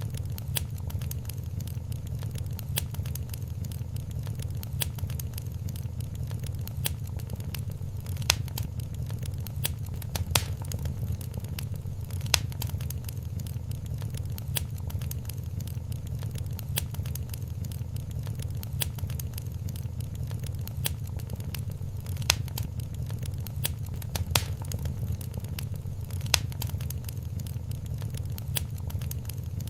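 Wood fire crackling in a fireplace: a steady low rumble of flames with many scattered sharp pops and snaps, a few of them standing out louder.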